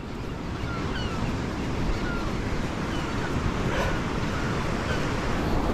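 Shorebirds calling in a flock: short, high, falling chirps, about two a second. Under them run steady surf and wind buffeting the microphone.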